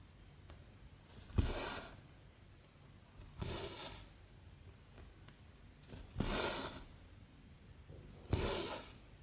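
Cotton embroidery thread being pulled through 14-count cross-stitch fabric, four short pulls of about half a second each, two to three seconds apart.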